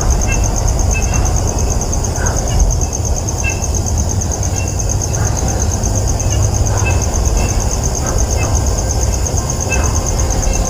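Outdoor ambience: a steady low rumble under a continuous high, evenly pulsing insect trill, with short high chirps scattered through.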